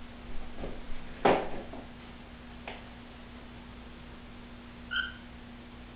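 A single short cockatiel chirp about five seconds in, one steady note with an overtone, over a steady low hum. A couple of brief, noisy rustles or knocks come in the first two seconds.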